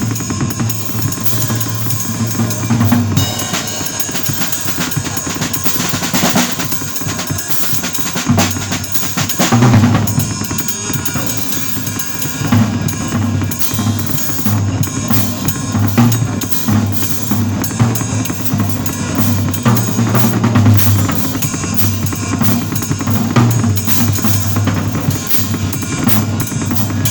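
Drum kit and bass playing together in a busy instrumental duet: the drummer works the bass drum, snare and rimshots and cymbals in a dense, driving flow over sustained low bass notes.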